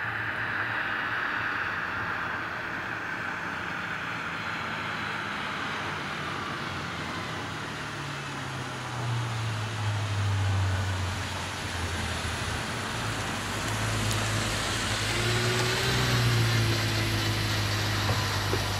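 Audi RS4 B7's 4.2-litre V8 running at a steady pace. A low, even engine note grows louder from about nine seconds in as the car comes closer, and stays strong near the end.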